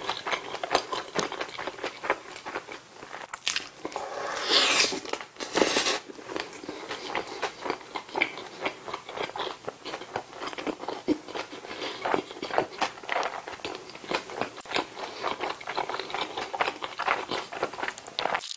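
Close-miked chewing and biting of a McDonald's bulgogi burger: many small wet clicks and crackles of the mouth working the bun and patty, with a louder, noisier stretch about four to six seconds in.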